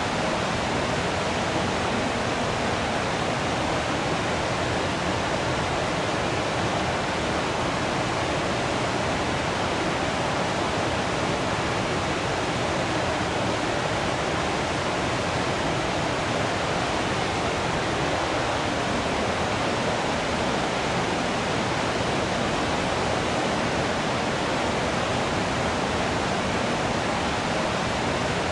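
Waterfall, with water falling and splashing in a steady, unbroken rush.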